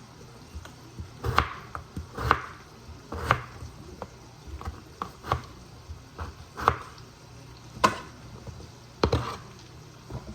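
Kitchen knife cutting potatoes into cubes on a cutting board: sharp knocks of the blade against the board at an uneven pace, about one a second.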